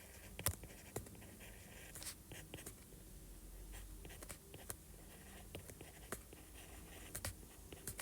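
Pen writing on a surface: short scratchy strokes and scattered light taps as equations are written out.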